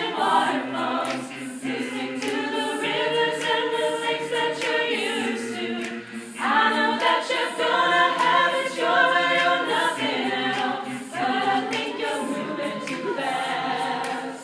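A cappella vocal group singing in close harmony, unaccompanied, with held chords that shift every second or two.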